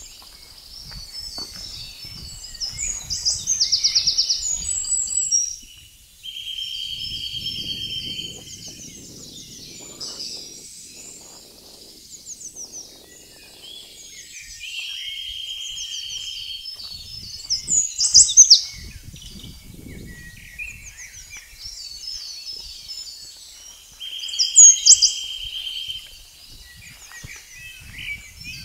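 Several woodland birds singing at once. A trilled phrase of about two seconds comes back three times, roughly every nine seconds, and sharp high notes and phrases fall between. Faint low rumbles and knocks lie underneath.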